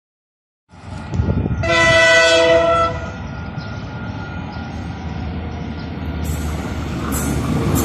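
Diesel locomotive of an approaching KiwiRail train sounding its multi-tone horn once for just over a second, then its engine and wheels rumbling, growing louder as it nears. The sound starts suddenly out of silence just under a second in.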